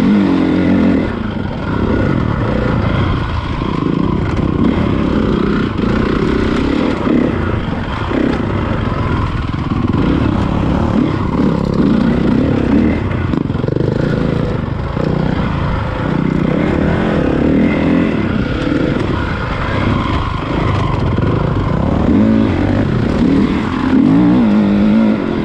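Honda CRF450 motocross bike's single-cylinder four-stroke engine being ridden, its pitch rising and falling again and again as the throttle is opened and closed.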